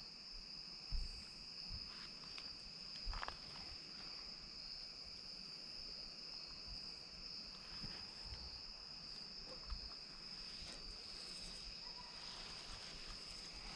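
Steady high-pitched chorus of insects chirring without a break, with a few faint knocks.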